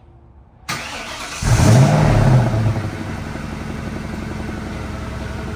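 1996 Ford Mustang SVT Cobra's 4.6-liter DOHC V8 cold-starting: the starter cranks for under a second, the engine catches and flares up in revs, then drops back and settles into a steady fast idle.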